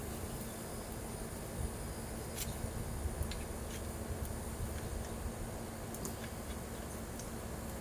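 Scattered light clicks and taps from working small aluminum pieces with hand tools, over a steady low hum.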